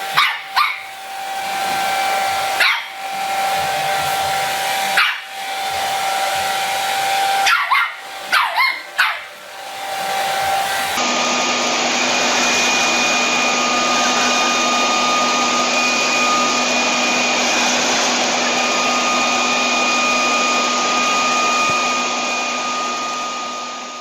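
A dog barks in short sharp bursts, about seven times in the first half, over a steady whirring appliance motor. Then, after an abrupt change, a louder electric motor whirs steadily, like a hair dryer, and fades near the end.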